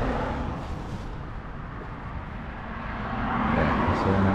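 Road traffic going by, a steady rumble that swells towards the end as a vehicle passes, with a single sharp click about four seconds in.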